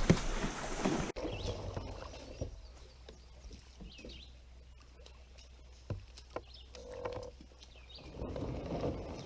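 Kayak paddling on a river: water splashing at first, then quieter, with scattered knocks of the paddle on the hull and a few faint bird chirps.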